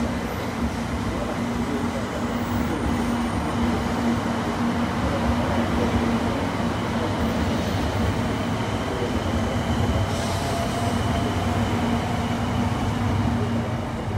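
Steady running noise of a Sanyo Shinkansen 700 series Rail Star train: an even, loud rumble with a constant low hum.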